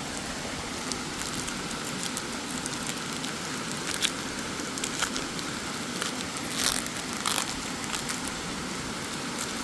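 Steady rush of a waterfall, with crackling and crinkling from Pokémon card packs and cards handled close by, a few sharper crinkles about two-thirds of the way in.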